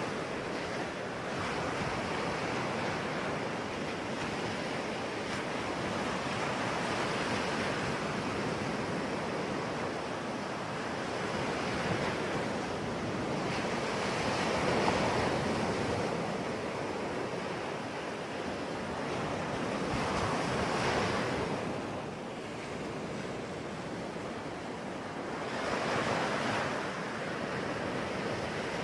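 Sea waves breaking and washing ashore, a continuous rush of surf that swells with each breaker every five or six seconds, with some wind noise on the microphone.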